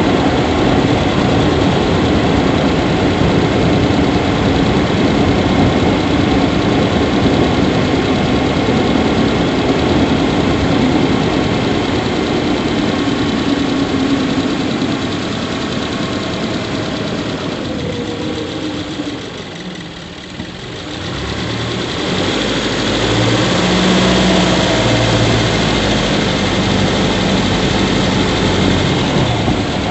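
Subaru Levorg 1.6GT-S's turbocharged 1.6-litre flat-four idling, heard in the engine bay, where the owner is chasing a squeaking noise ("kyuri") that he says grows louder the longer the engine runs. The sound drops briefly about two-thirds of the way through, then comes back with a deeper hum.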